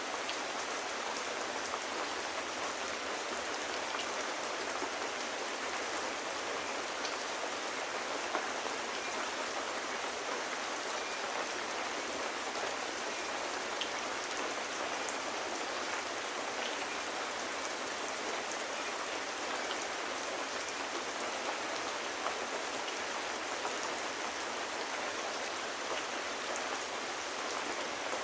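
Steady rain falling on hard surfaces, an even hiss with scattered small drop ticks.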